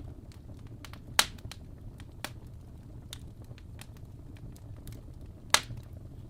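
Fire crackling: scattered small clicks over a low steady rumble, with two sharp, loud pops, one about a second in and one near the end.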